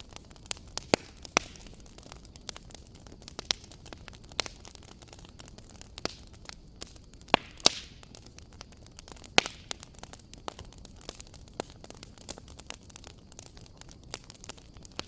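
Wood fire crackling in a fireplace: irregular sharp pops and snaps over a low, steady hiss. The loudest pops come about a second in and in a close pair around the middle.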